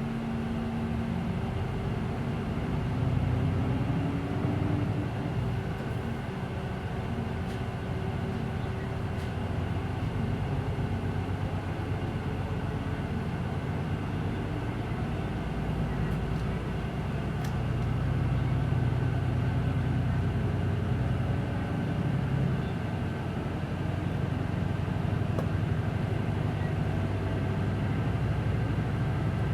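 Interior running sound of a Hino Blue Ribbon City Hybrid city bus: the hybrid drivetrain runs under load, with a steady low engine note and whining tones. One of these rises in pitch over the first few seconds as the bus pulls away.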